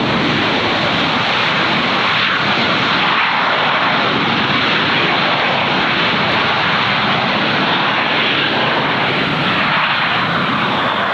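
Airliner engines running loud and steady as a large aircraft passes close by.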